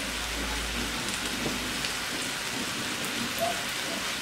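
Adobo native chicken frying in a wok with a steady sizzle, its sauce cooked down nearly dry so the meat is toasting in its own oil.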